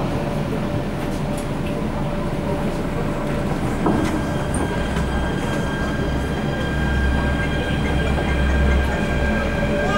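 MTR Tung Chung Line K-Train electric multiple unit running, heard from inside the carriage: a steady rumble of wheels and running gear with a faint steady whine. About four seconds in, higher whining tones come in and the low rumble gets louder.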